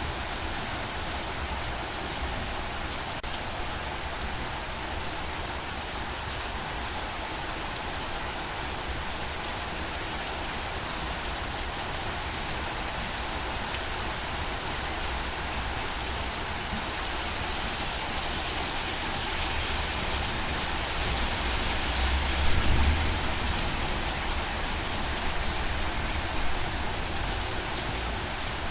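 Steady rain falling, a dense even hiss of drops with a low rumble underneath. The low rumble swells briefly about three quarters of the way through.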